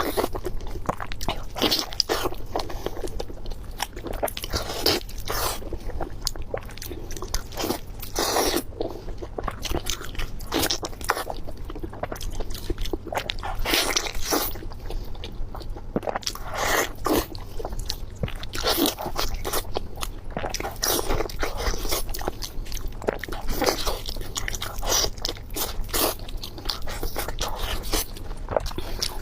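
Biting and chewing of crunchy beef knee cartilage, a dense, irregular run of crisp crunches.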